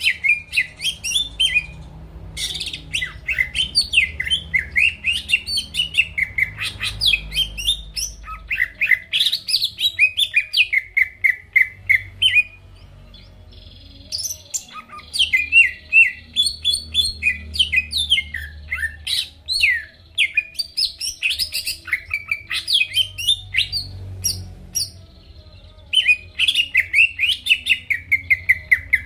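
Cucak ijo (greater green leafbird) singing hard: long fast runs of sharp chirps and whistled sweeps, several notes a second, with a brief pause about halfway through before the song picks up again. It is the bird's full, loud song, the kind used to spur rival songbirds into singing.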